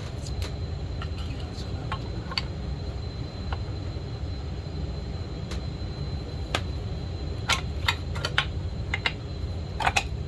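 Scattered light clicks and clinks of chainsaw parts and tools being handled during hand reassembly, several in quick succession near the end, over a steady low rumble.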